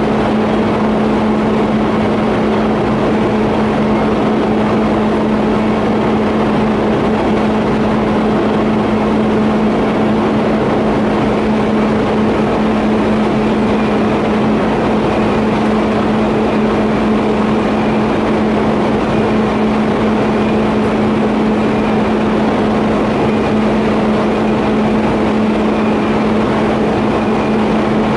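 TIG welding on a 50A pipe flange and elbow: a steady electrical hum with an even hiss underneath, unbroken throughout.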